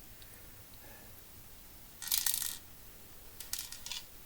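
A brief metallic clatter about two seconds in, then a few light clicks: a BB gun and its small metal parts being handled on the bench.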